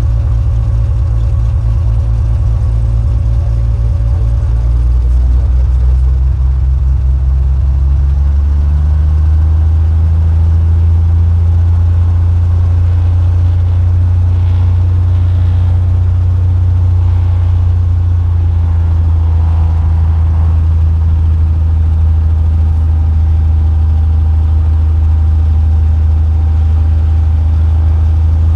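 Cessna 182's piston engine running steadily. It picks up speed about five seconds in and again around eight seconds, then holds at the higher setting.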